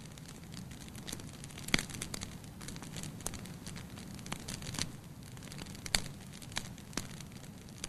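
Wood fire burning in a fireplace: irregular sharp crackles and pops, roughly one a second, over a low steady rumble of flame.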